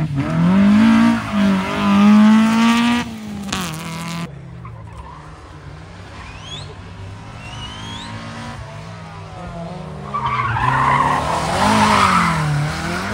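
A rally car engine revving hard and rising in pitch. After a quieter stretch of engine running, the tyres squeal and skid loudly near the end as the car spins, with the engine revs rising and falling underneath.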